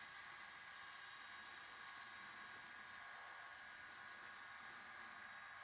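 Faint, steady hiss with several steady high-pitched whining tones, and no distinct event: background noise after speech ends.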